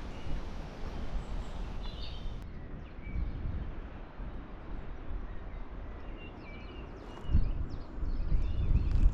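Wind buffeting the microphone, stronger near the end, with faint bird chirps in the background.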